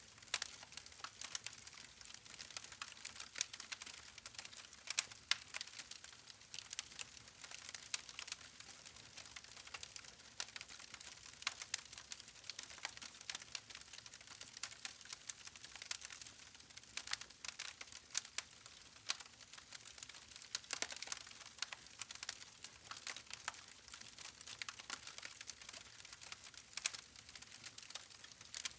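Wood campfire crackling: irregular sharp snaps and pops over a soft hiss, with a few louder pops scattered through.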